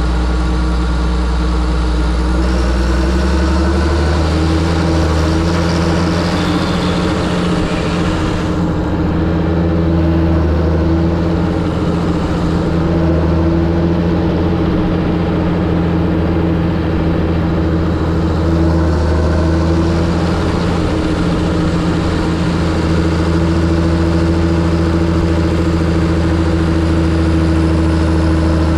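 John Deere 7730 tractor's diesel engine running steadily; engine speed rises a little about three to four seconds in, then holds.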